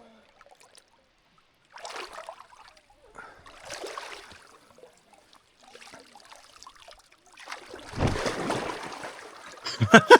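Water splashing in irregular bursts as people wade and swim through a rock pool. The loudest, heaviest splash comes about eight seconds in. A short voice sound starts right at the end.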